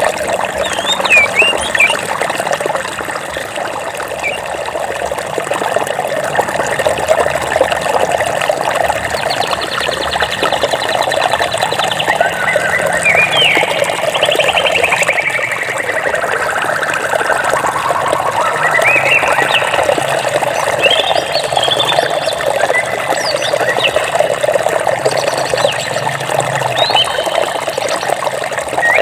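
Steady rush of flowing water with birds chirping over it. In the middle one bird gives a long trill that steps down in pitch.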